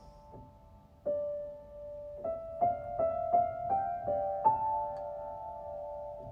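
Soft piano music: a slow melody of single notes struck one after another, beginning about a second in.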